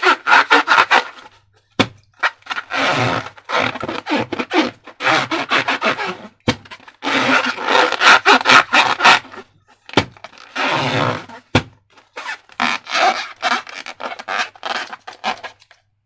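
Slime being worked by hand with balloons and plastic: crackly rubbing and scraping in repeated bursts about a second long, with a few single sharp snaps in between.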